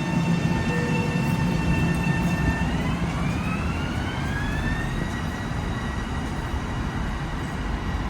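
Electric commuter train pulling away, its motor whine at a steady pitch over a low rumble, then about three seconds in rising smoothly for two seconds and levelling off higher as the train gathers speed.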